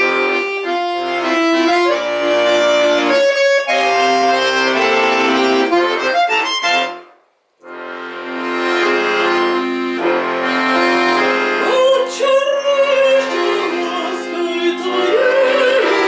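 Live instrumental introduction to an old romance: sustained chords under a melody. It breaks off for about half a second just past the middle, then picks up again.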